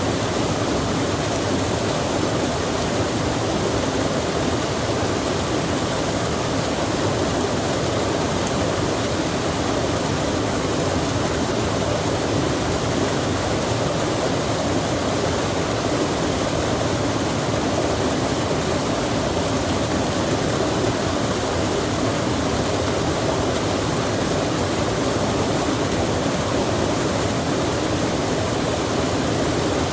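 Steady rush of flowing water, a stream or waterfall, constant and unchanging, with no birdsong or other distinct sounds on top.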